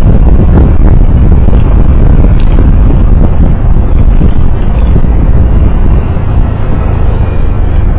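Loud, steady rumble of a road vehicle on the move, heavy in the low end, easing slightly about six seconds in.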